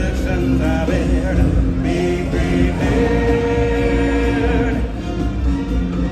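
Music with a choir singing long held notes in several parts over a band backing.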